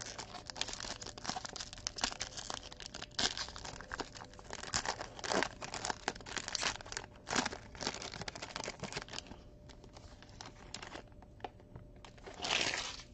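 Crinkling and rustling of plastic as trading cards and their packaging are handled, dotted with small clicks and taps. It thins out a few seconds before the end, then comes back as a short burst of rustling.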